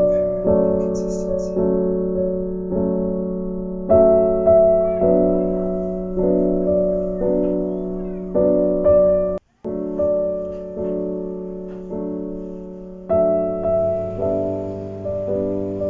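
Background piano music, a slow melody of single notes struck about twice a second, each ringing and fading. It cuts out for an instant about nine and a half seconds in.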